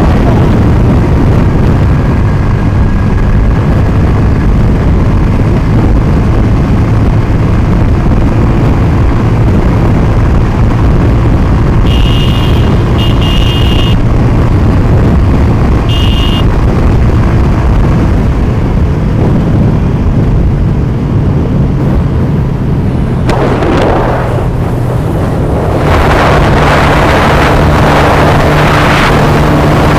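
Motorcycle engine running steadily with road noise, with three short high beeps around the middle. Near the end a rushing sound like wind on the microphone rises and stays.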